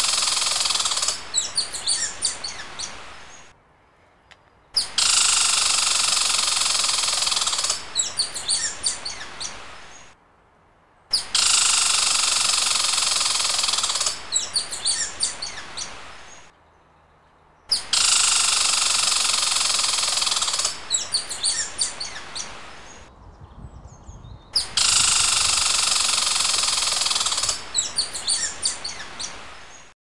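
A short looped nature-sound track: a loud, dense buzzing hiss for about two and a half seconds, then a quick run of high bird chirps, then a gap of about a second. The same pattern repeats over and over, about every six and a half seconds.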